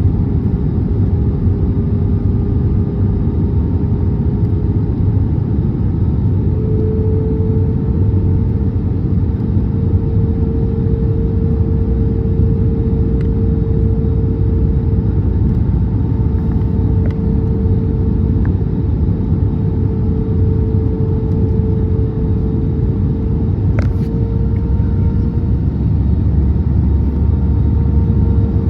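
Airbus A320neo cabin noise from inside the aircraft: a steady, loud jet-engine and airflow rumble with a held whine that steps up slightly in pitch a few seconds in.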